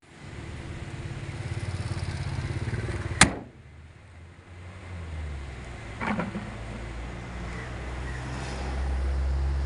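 2012 BMW 328i's 2.0-litre turbocharged four-cylinder engine running at idle as a steady low hum that grows a little louder near the end. A single sharp clack about three seconds in.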